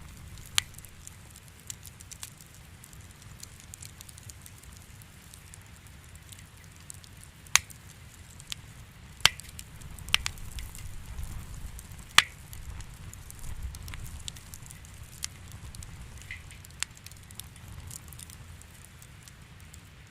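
Wood fire in a fireplace crackling, with sharp pops at irregular intervals, a few louder ones in the middle, over a steady low rumble.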